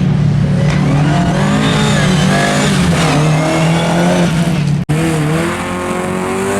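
Rear-wheel-drive rally car engine at high revs on a stage, its pitch rising and falling as the driver works the throttle and gears. The sound drops out for an instant about five seconds in.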